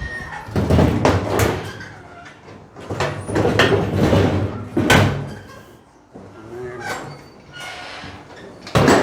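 Bangs, scrapes and slams as a metal truck toolbox is handled and fitted into place. They come in three bouts: about a second in, again from about three to five seconds, and a sharp bang near the end.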